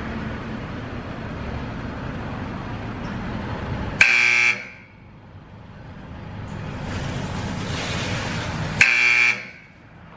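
Two loud electronic buzzer blasts from the Oasis Baywash i5 in-bay car wash, each about half a second long and roughly five seconds apart, over the steady hiss of the wash equipment. Seconds later the wash shows a fault.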